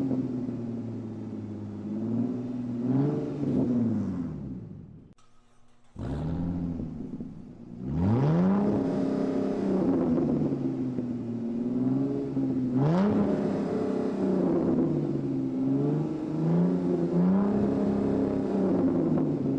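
Engine sound revving up and down again and again. It dies away for a moment about five seconds in, then comes back with a rising rev and carries on in repeated swells.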